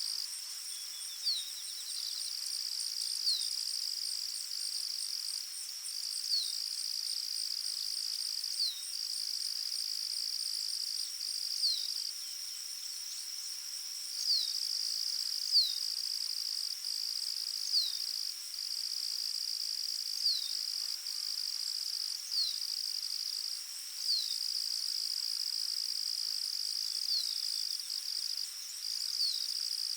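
Forest ambience: a steady high insect trill with brief breaks runs throughout, and a bird gives a short, falling chirp about every two seconds.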